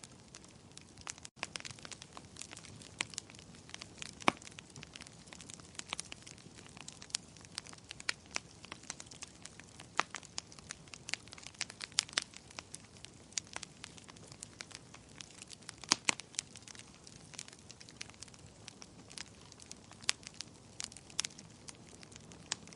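Wood fire crackling in a fireplace: irregular sharp pops and snaps over a soft steady hiss of burning, with a couple of louder pops about four seconds and sixteen seconds in.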